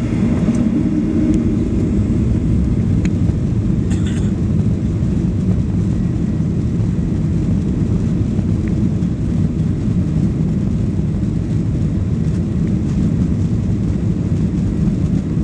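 Boeing 737 Next Generation jet engines running as a steady low rumble, with no change in level.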